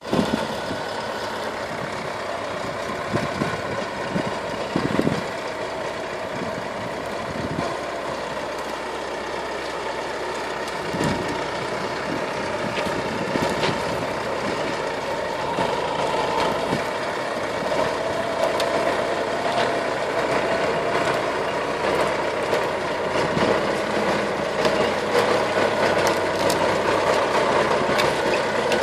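Forestry tractor engine running steadily, with occasional sharp knocks and clanks over it. It grows gradually louder in the second half.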